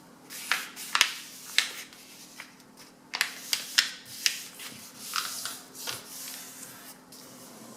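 A sheet of A4 paper being folded and creased by hand: irregular short, crisp rustles and scrapes as the paper is bent and pressed flat with the fingernails.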